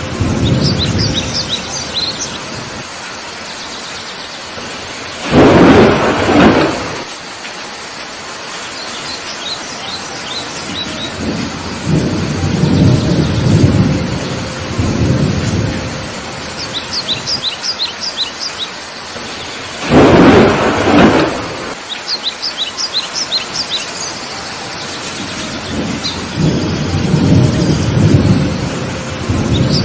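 Heavy rain falling steadily while thunder rumbles in repeated low swells, with two loud thunderclaps about 6 seconds and 20 seconds in. Birds chirp in short quick runs of high notes throughout.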